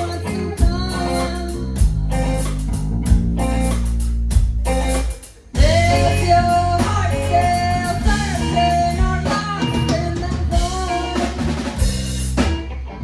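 Live band playing: drum kit, guitar and bass with a lead vocal. The band cuts out briefly about five seconds in, then comes back in at full level with held sung notes.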